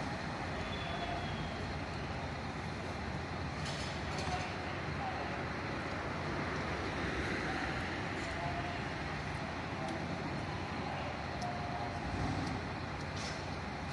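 Steady rumble of vehicle engines and traffic, with a couple of faint clicks.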